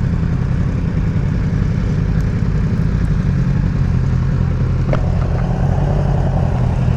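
Motorcycle engine running steadily at low revs, with a single sharp click about five seconds in.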